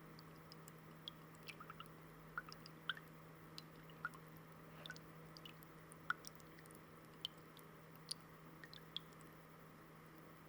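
Water in a shallow fountain dripping and plinking faintly, with irregular small drops a few times a second over a steady low hum.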